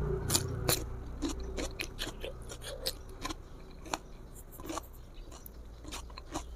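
Close-miked mouth sounds of biting into and chewing a raw garlic clove: a run of irregular crisp crunching clicks, several a second.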